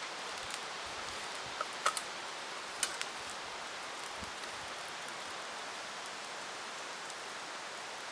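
Campfire burning with a steady hiss and a few sharp crackles and pops, most of them between about one and a half and three seconds in.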